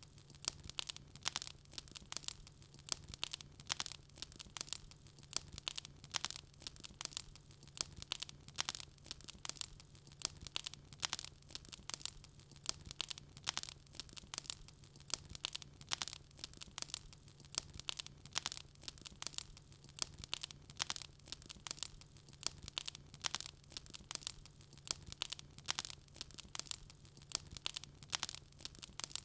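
Wood fire burning in a fireplace: continuous crackling, with several sharp pops a second.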